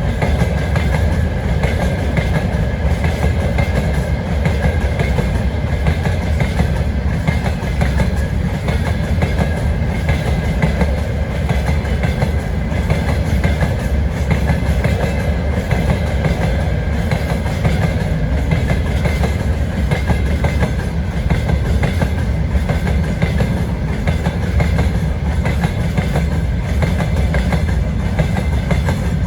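Freight train wagons rolling past, their wheels clattering rhythmically over the rail joints, with a steady high ringing tone above the rumble.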